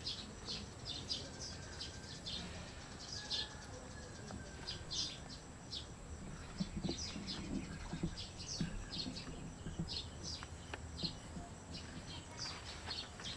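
Small birds chirping over and over, short high chirps in quick runs, with a few soft low knocks about halfway through.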